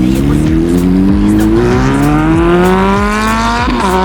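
Superbike engine accelerating hard, its pitch climbing steadily for over three seconds, with a brief dip in pitch near the end.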